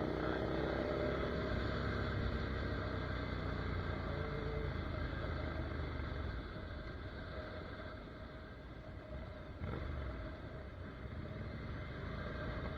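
Ducati Monster 797's air-cooled L-twin engine braking off the throttle: its note falls steadily in pitch for the first few seconds, then drops to a quieter, rougher running sound. A brief knock comes near the ten-second mark.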